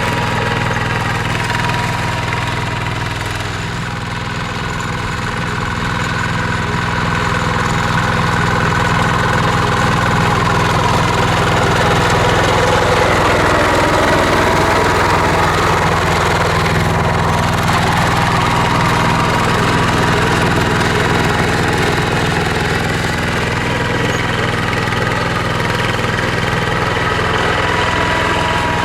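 Mini tractor's engine running steadily while the tractor plows a field, with a brief dip in loudness about four seconds in.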